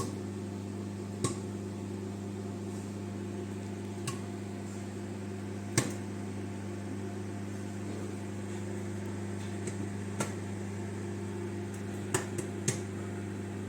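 Microwave oven running with a steady hum while a bag of popcorn pops inside. The pops are sparse and scattered, about eight sharp pops spaced a second or more apart, a few close together near the end. The slowing, widely spaced popping is the sign that the popcorn is done.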